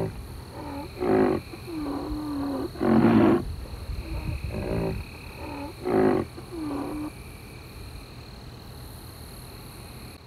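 Large animal's deep calls: about six loud calls over the first seven seconds, some short, some drawn out into a low steady moan, the loudest about three seconds in. Then the calls stop.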